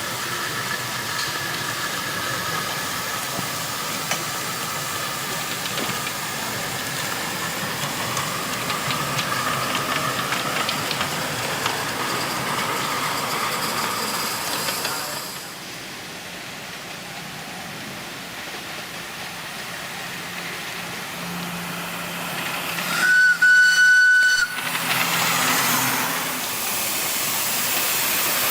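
Miniature live-steam locomotive hissing steam, loudly for about the first half and then quieter. About 23 s in, its steam whistle gives one steady blast of about a second and a half, the loudest sound.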